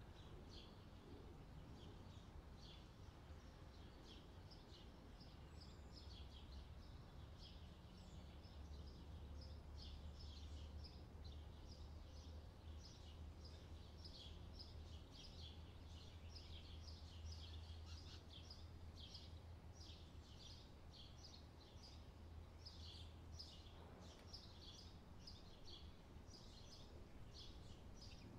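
Faint, rapid chirping of small birds, many short calls a second, over a low steady hum.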